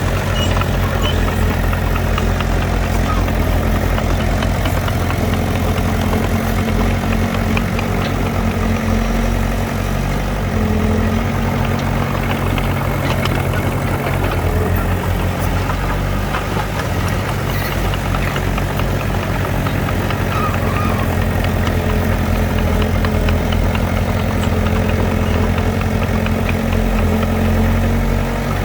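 Heavy diesel engine of earthmoving machinery running steadily at low revs, its pitch stepping up about ten seconds in and shifting again near the end.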